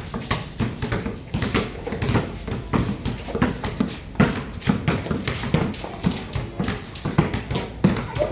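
Several basketballs being dribbled at once on a hard court: an irregular, overlapping patter of bounces, several a second.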